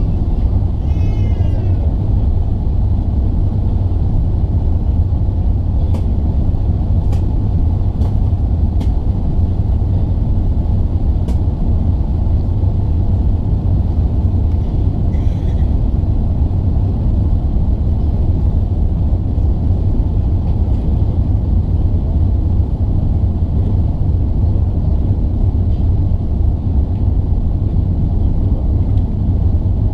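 Airbus A380 airliner heard from inside the passenger cabin during its takeoff climb: a loud, steady low rumble of engines and airflow, with a few faint clicks about six to eleven seconds in.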